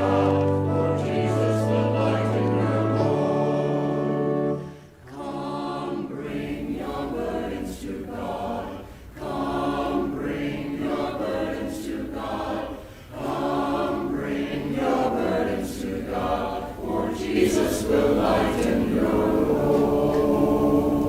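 Choir singing a hymn in held chords. One phrase ends about four and a half seconds in, then the singing goes on in phrases with short breaks between them.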